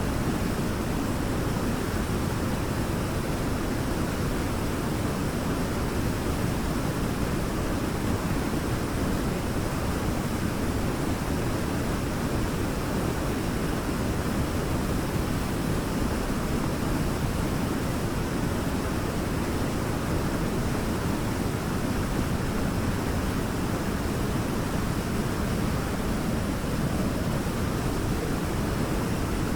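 Waterfall: a steady, even rush of falling water, strongest in the low range.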